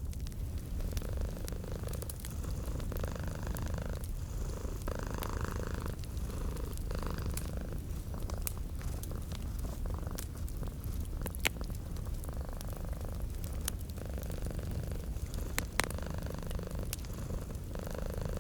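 Domestic cat purring steadily, the purr swelling and fading in a slow cycle of a second or two. Scattered sharp pops and crackles from a wood fire sound over it, two of them louder in the second half.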